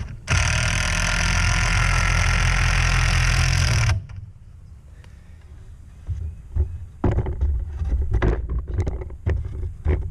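A power tool runs steadily for about four seconds, starting and stopping abruptly. Then come scattered knocks and clicks of wood being handled.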